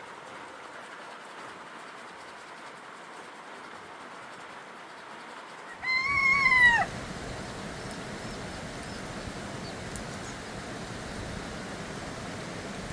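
A single animal call about six seconds in, lasting just under a second, that rises and then falls in pitch. It sits over a steady outdoor hiss, which turns heavier and lower from the moment of the call.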